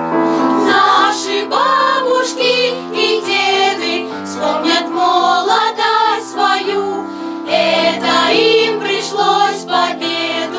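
Children's choir singing a song in Russian in several voices, over a sustained instrumental accompaniment.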